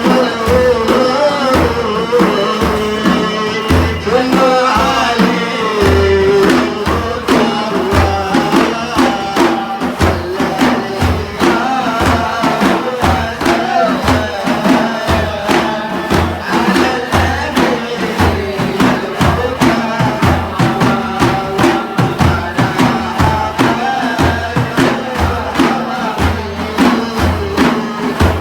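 Sufi devotional chanting: voices singing and chanting over a steady, driving beat of frame drums.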